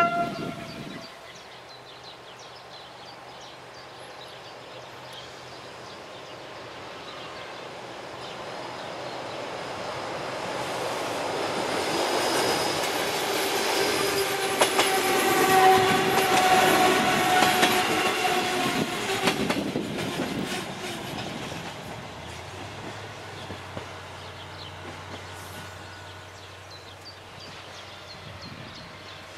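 An SA106 diesel railcar gives a short horn blast at the start. It then approaches and passes with a rising rumble and wheel clatter over the rail joints, loudest about halfway through, and dies away.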